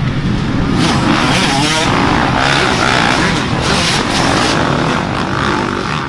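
Dirt bike engine running under load while riding, its pitch rising and falling with the throttle about a second in.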